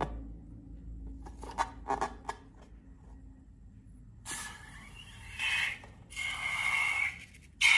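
Slime and balloons being handled: a few soft clicks, then two stretches of rubbing with a thin squeak, about four seconds in and again about six seconds in.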